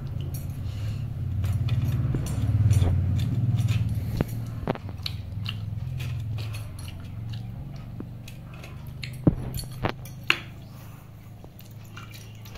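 Close-up eating sounds of pakhala (watered rice) with tomato fry: wet chewing and squishing over a steady low rumble that is loudest about two to four seconds in. A handful of sharp clicks come around four to five seconds in and again around nine to ten seconds in.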